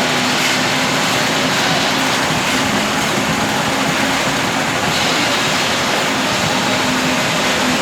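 A machine's engine running steadily with a constant low hum under a loud, even rush of noise.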